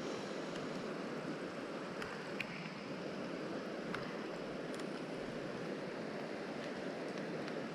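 Mountain stream water rushing steadily, with a few faint short ticks.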